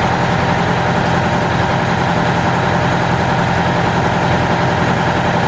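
A motor running steadily at an even, unchanging pitch, with a constant low hum.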